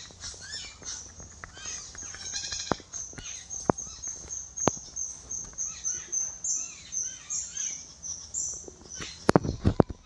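Birds chirping and calling, with a fast run of high, thin notes repeated about three times a second through the middle. A few sharp knocks come near the end.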